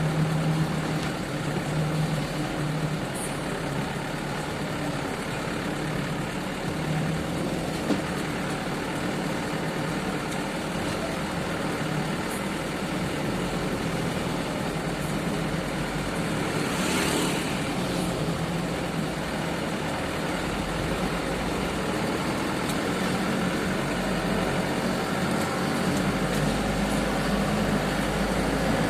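Heavy sugarcane truck's engine running steadily, its low rumble growing stronger about twenty seconds in, with a brief hiss about seventeen seconds in.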